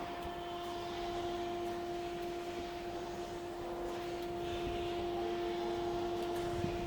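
Steady electrical machine hum from a running laboratory furnace: a constant mid-pitched hum over an even rushing, fan-like noise.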